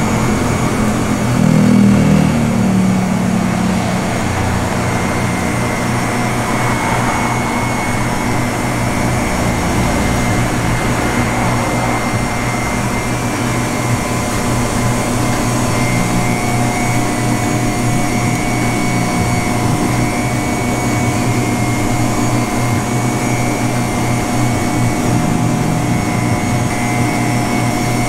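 A steady electric machine hum with a few constant tones over a noisy whir, briefly louder about two seconds in.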